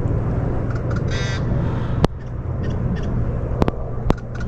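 One short bird call about a second in, over a steady low rumble, with three sharp clicks in the second half.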